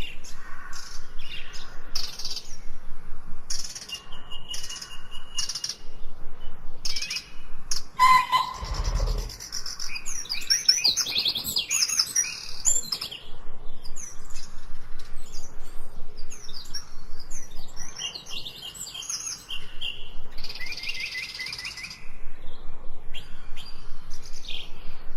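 Several songbirds chirping and singing in quick, overlapping calls and trills, with a brief low thud about eight seconds in.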